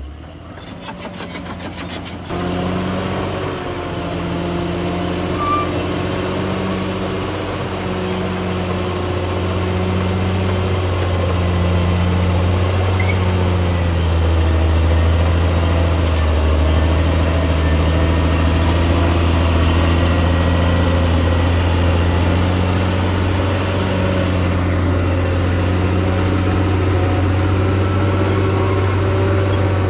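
Bulldozer's diesel engine running steadily under load. A faint high whine sits above it, and the engine note swells lightly about once a second.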